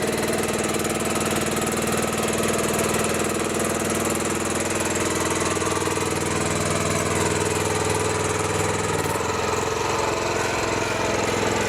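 An engine running steadily, its even note holding through, with a slight change in tone about nine seconds in.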